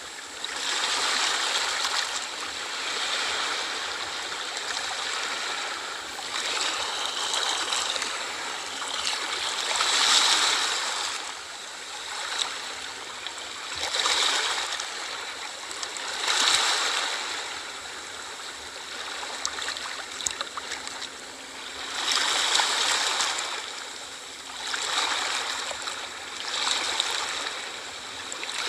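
Small sea waves washing onto a shore, the wash swelling and falling back every two to three seconds.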